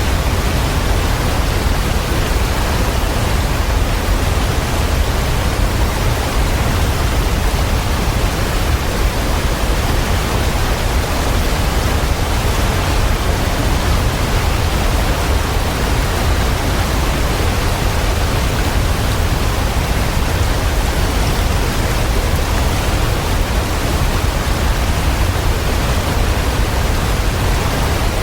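Waterfall: a steady, unbroken rush of falling water, heaviest in the low rumble and even throughout.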